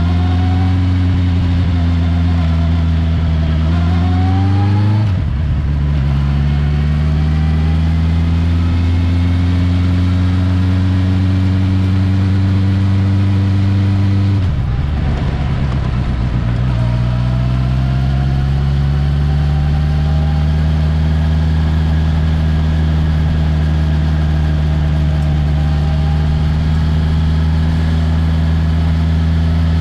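Honda CB650R's 649 cc inline-four engine pulling under load. Its note climbs slowly in pitch, then drops sharply twice, about 5 seconds and 14 seconds in, as it shifts up a gear, and climbs again after each shift.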